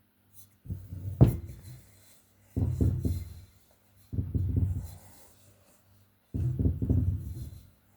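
Fingers rubbing butter into flour in a mixing bowl: four bursts of rustling, with a sharp knock about a second in.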